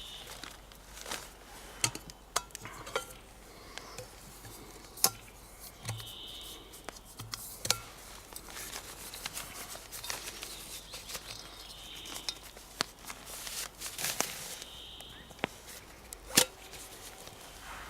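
Close handling noises: a string of sharp clicks and knocks with crinkling and rustling. A bird gives a short high call about every six seconds.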